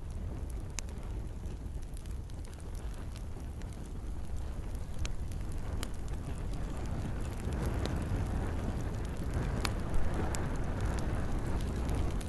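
Campfire crackling, with sharp pops scattered over a steady low rumble of flames and rain; one louder pop about ten seconds in.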